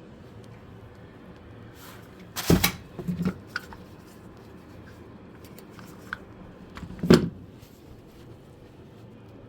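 Handling knocks and clicks: two loud knocks about two and a half and seven seconds in, each followed by a few lighter knocks, with scattered small clicks between, over a low steady hum.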